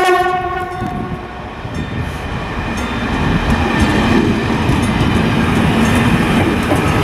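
A passenger multiple-unit train sounds a short horn blast that stops about a second in. Then it runs past close by, and the rumble of its wheels on the rails grows louder as the carriages go by.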